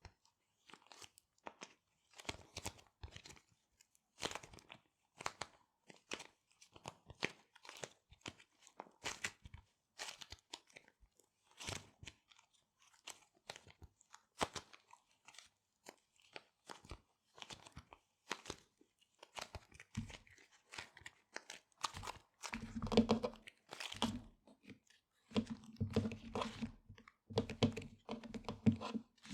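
Small resealable plastic bags being handled and crinkled, a steady run of short crisp crackles. In the last several seconds the sound turns into longer, louder buzzing rubs of the plastic.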